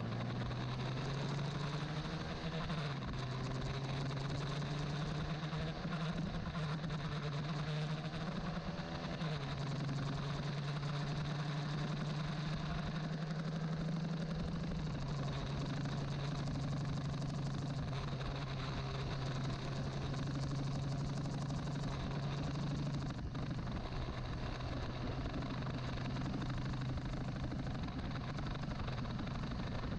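Old carburetted Honda CBR150R's single-cylinder four-stroke engine running steadily, its note stepping up or down in pitch a few times.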